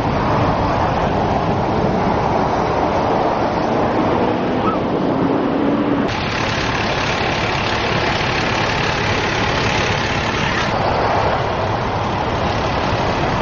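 Steady roadway traffic noise: vehicles running and passing on a highway. The sound changes abruptly about six seconds in and again near the eleven-second mark.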